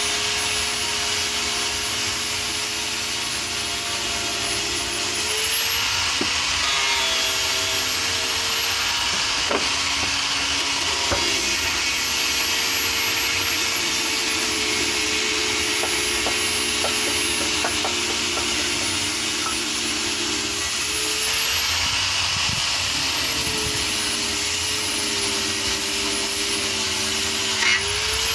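Electric power tool motor running continuously while working wood, with a grinding, rasping noise; the motor's pitch sags under load and rises briefly when the tool is eased off, a few times.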